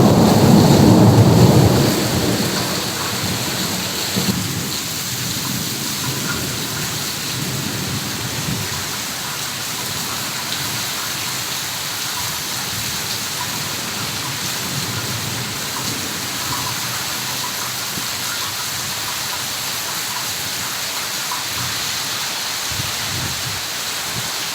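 Heavy rain pouring steadily, with a low thunder rumble at the start that dies away within about two seconds.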